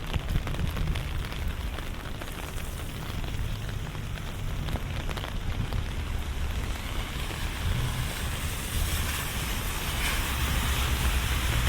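Rain falling on a wet city street, with many small drops ticking over a steady low rumble of traffic. Over the last few seconds a hiss swells up, like a car passing on wet pavement.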